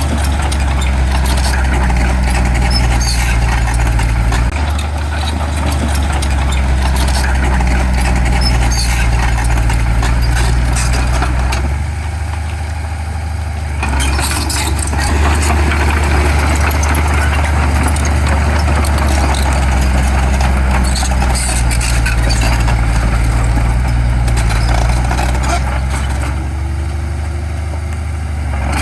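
Heavy diesel construction machinery running steadily with a deep engine drone and some clatter, easing off briefly about halfway through and again near the end.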